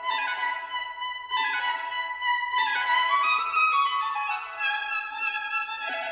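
Background music led by a violin playing quick descending runs of notes.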